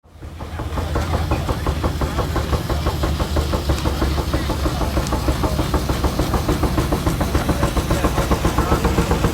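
Engine running at a steady, fast rhythmic beat, about eight beats a second, with a heavy low rumble, fading in at the start.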